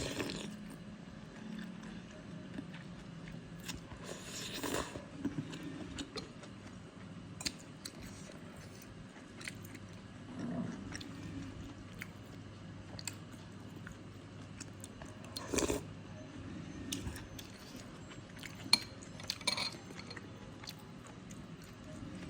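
Close-miked mouth sounds of eating soto mie noodle soup: steady chewing and biting with moist clicks, and a few louder, brief bites or crunches every few seconds.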